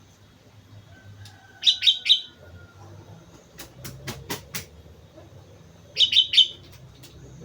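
Sooty-headed bulbul (kutilang) calling: two short, loud three-note phrases about four seconds apart. Between them comes a quick run of sharp clicks.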